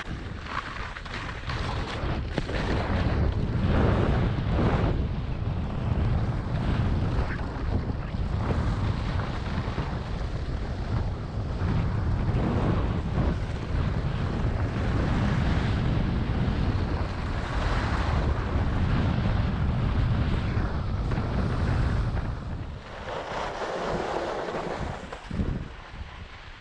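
Wind rushing over a GoPro Hero7's microphone on a downhill ski run, a heavy rumble that surges and eases, with the skis scraping and hissing over firm spring snow.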